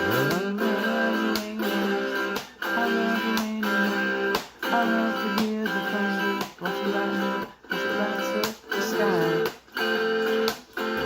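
Guitar-led country-pop instrumental intro, strummed and plucked, in a chopped rhythm that drops out briefly about once a second. A rising slide in the bass opens it and comes again near the end.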